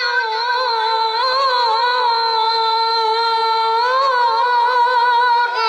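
A child qori's voice holding one long note in melodic Quran recitation (tilawah), with small wavering ornaments in pitch.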